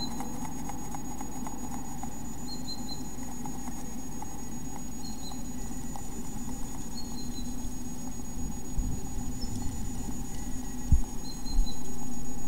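Faint high bird chirps in short groups of two or three notes, repeating every two to three seconds, over a steady low hum and a thin high whine. About eleven seconds in come two dull thumps as the incubating great tit shifts and fluffs up in the nest box, and the background grows louder after them.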